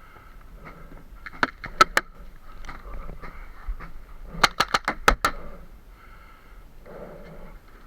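Paintball marker shots: three quick pops about a second and a half in, then a rapid string of about six pops a little past the middle.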